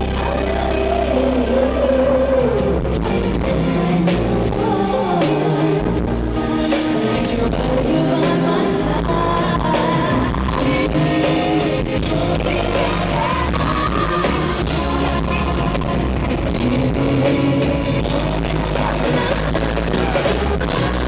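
Live band music with a woman's lead vocal singing a melody that slides between notes, over a full band with heavy bass.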